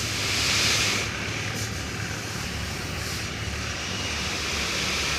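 Tipper truck's diesel engine running steadily while the truck unloads, with a hissing rush during the first second.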